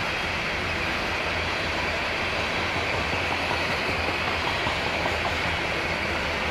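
Loaded coal hopper cars rolling past on the rails, a steady noise of wheels and cars in motion.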